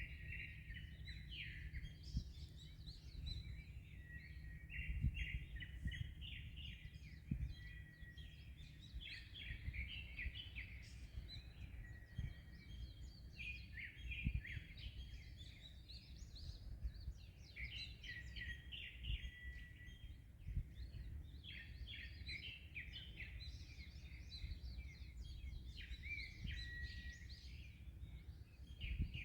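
Many small songbirds chirping and twittering in a dense, almost unbroken chorus of short high calls, over a steady low rumble.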